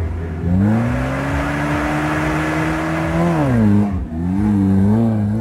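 An off-road 4x4's engine revving: its pitch climbs about half a second in and holds steady, drops back a little past three seconds, then rises and falls a few times near the end.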